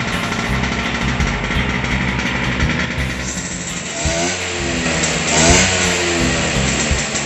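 Scooter engine running and revving, its pitch falling and then rising again about two-thirds of the way through, over background music.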